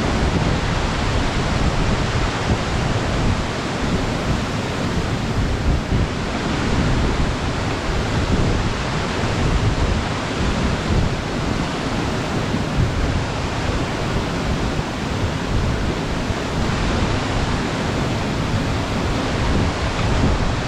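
Waterfall pouring steadily: an even rush of falling water with a heavy, fluttering low end.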